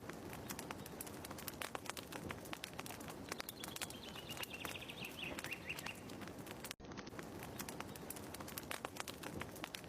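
Wood fire crackling with many small pops and snaps, with a high chirp falling in pitch about four seconds in. The sound cuts out for an instant about seven seconds in and starts again.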